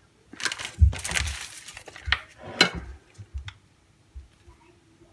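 Kitchen handling noises: several knocks and clinks with a stretch of rustling, crowded into the first three seconds or so, then quiet handling.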